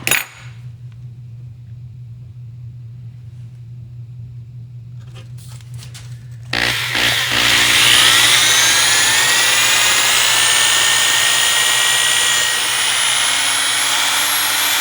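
A steady low hum, then about halfway through an electric drill starts up, its whine rising in pitch as it spins up and then running steadily while it bores a hole straight down into the wood.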